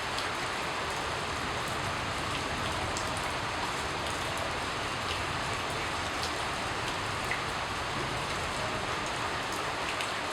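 Steady rain falling: an even hiss with scattered ticks of individual drops landing.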